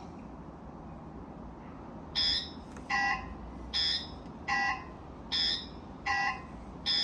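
Niu MQi GT electric scooter's turn-signal sounder beeping with one of its pre-installed blinker sounds: starting about two seconds in, short electronic beeps alternate between a higher and a lower tone, about one beep every 0.8 seconds.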